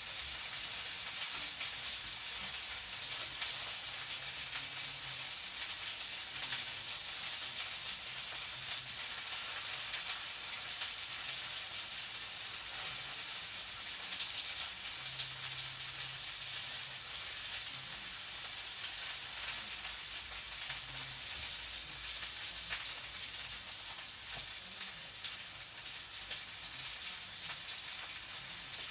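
Food frying in hot oil in a pan: a steady sizzling hiss with fine crackles throughout.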